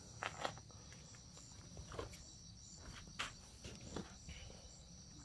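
Insects chirping steadily in a high, even chorus, with a few scattered light clicks and knocks.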